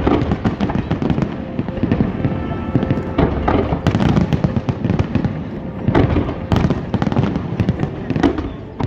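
Aerial fireworks shells bursting in quick succession, a dense run of overlapping booms and crackles, with the loudest bangs a few times a second apart.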